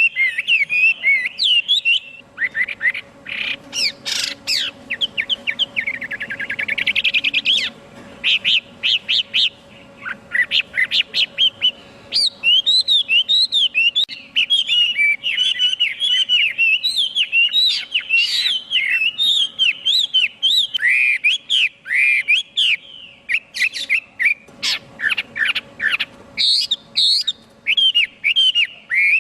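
Chinese hwamei singing a long, varied song of rapid whistled phrases, with a dense run of sharp short notes a few seconds in.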